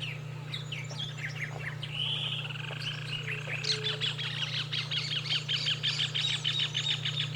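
Wild birds calling: scattered short chirps, then from about halfway a fast chattering run of rapid repeated notes, about eight a second, over a steady low hum.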